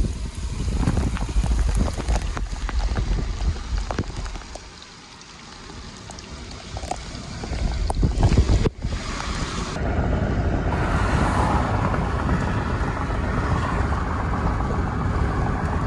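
Wind buffeting the microphone over the rumble of a moving vehicle, uneven with a few knocks. About nine seconds in it cuts off abruptly, and a steadier rushing noise follows.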